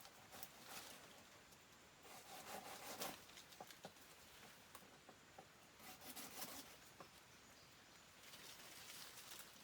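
Near silence with faint rustling and a few light taps, in short patches a couple of seconds in, around the middle and near the end.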